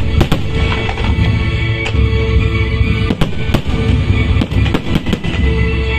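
Aerial firework shells bursting in a rapid, irregular run of sharp bangs with crackle and a continuous low rumble. Music with sustained notes plays under the bangs.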